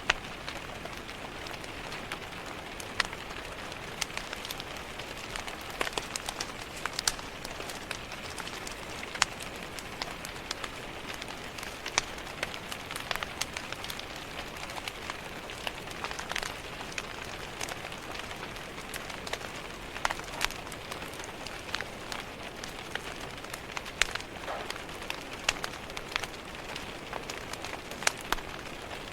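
Steady rain pattering against a window, with irregular sharp pops and crackles from a wood fire in a fireplace.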